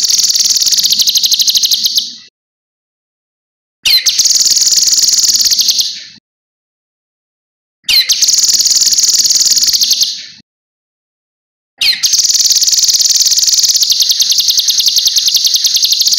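Cucak kinoi singing: a series of long, high, rapid trills, each opening with a short upward sweep. The phrases last about two seconds, with silences of roughly two seconds between them, and the last one runs longer.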